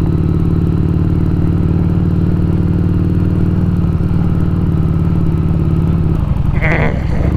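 Harley-Davidson Street Rod 750's liquid-cooled 750 cc V-twin engine running steadily under way, easing off about six seconds in.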